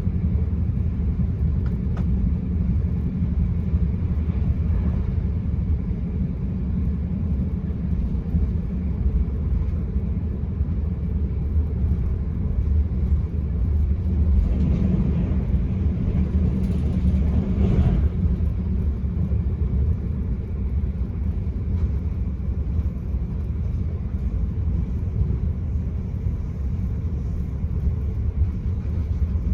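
Enterprise passenger train heard from inside the carriage, running at speed: a steady low rumble of wheels on track, with a brief louder rushing stretch about halfway through.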